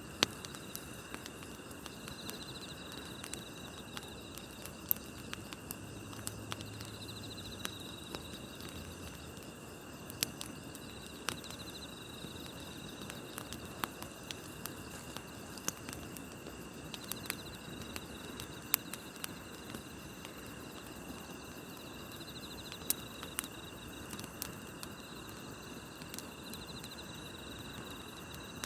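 Wood campfire crackling with irregular sharp pops, over a steady chorus of night insects chirping in the grass.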